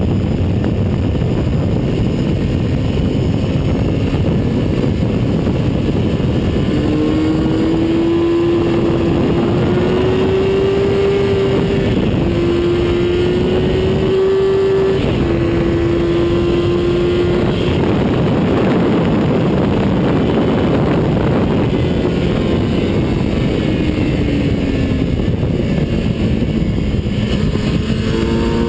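Engine of a vehicle lapping a race track, heard onboard through heavy wind and road noise. Its note climbs through the gears, dropping back at each shift, then falls away as it slows near the end.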